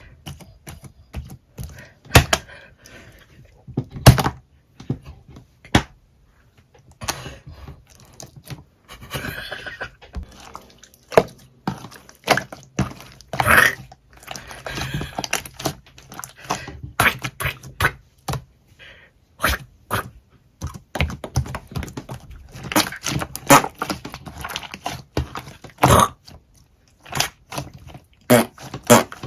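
Irregular sharp clicks and knocks with bouts of crunching between them.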